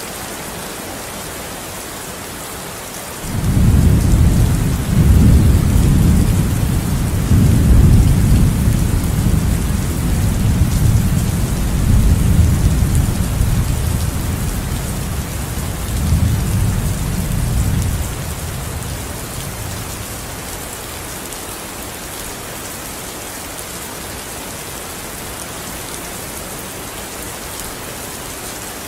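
Steady rain hiss with a long roll of thunder: a low rumble that starts suddenly about three seconds in, swells several times and dies away about fifteen seconds later.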